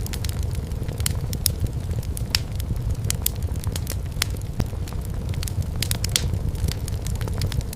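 Wood fire in a fireplace crackling, with frequent sharp pops and snaps at irregular intervals over a steady low rumble of the flames.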